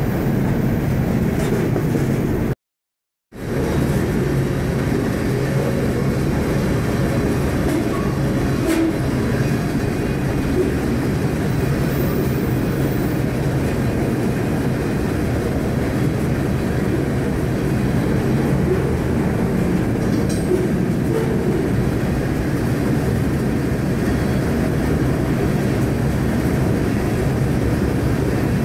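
Steady running noise of a freight train heard from on board one of its cars: a continuous low rumble and rattle. It cuts out to silence for under a second about three seconds in.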